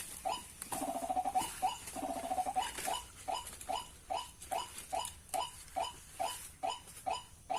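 White-breasted waterhens calling: a steady run of short, repeated notes, about two and a half a second, with a rapid, grating, croaking trill mixed in during the first couple of seconds.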